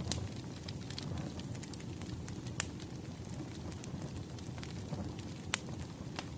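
Wood fire crackling: a steady low rumble of burning logs with scattered sharp pops, the two loudest about two and a half and five and a half seconds in.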